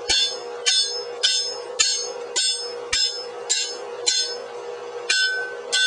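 Hand hammer striking a steel drift to drive it into the slit in a hot iron axe block, opening the eye: about eleven evenly paced blows, roughly two a second, each ringing metallically.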